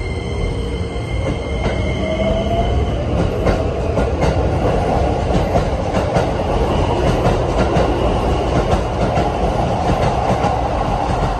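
Keikyu 1000-series electric train pulling out of a station. Its motor whine rises in pitch over the first few seconds as it accelerates, then gives way to a steady rumble with wheels clicking over rail joints.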